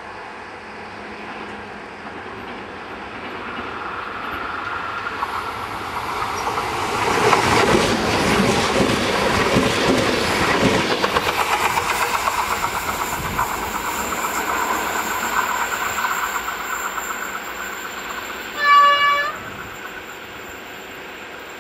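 Renfe Class 448 electric multiple unit approaching and passing close by, its wheels clattering over the rail joints. The noise builds to a peak about seven to eleven seconds in and then fades as it draws away. A short, loud single-note horn blast sounds near the end.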